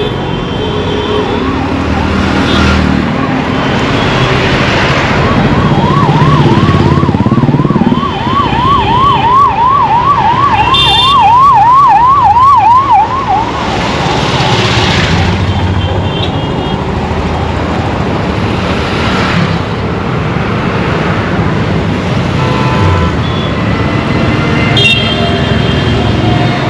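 Emergency vehicle siren in a fast warble, its pitch rising and falling about two to three times a second, loudest in the middle and fading out about halfway through. It sits over steady road-traffic rumble, with short vehicle horn honks now and then.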